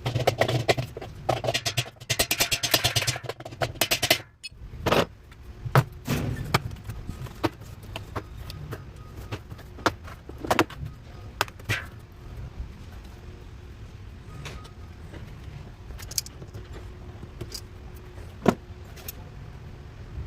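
Classic Whirlpool top-load washer on a test run after a repair to its spin brake: a steady low motor hum, with rapid clicking and rattling for the first few seconds, then scattered knocks.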